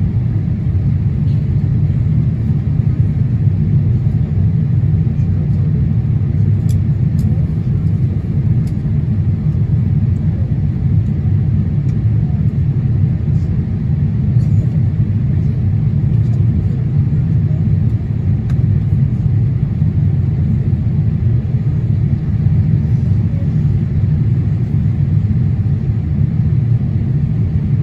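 Steady low rumble of a Boeing 787-8 Dreamliner in climb, heard from inside the passenger cabin: engine and airflow noise with no change in pitch or level.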